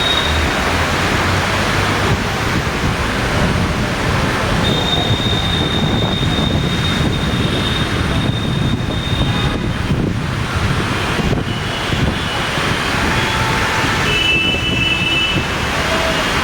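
Strong cyclone wind blowing steadily and buffeting the microphone, a loud, even rush with no breaks.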